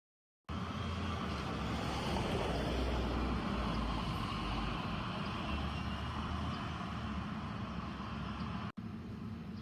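Steady low rumble with a hiss of noise over it, like a vehicle's running and road noise, starting abruptly just after the start and cut off for an instant near the end.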